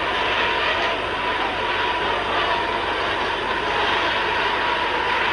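A large congregation praying aloud all at once, many voices merging into a loud, steady roar.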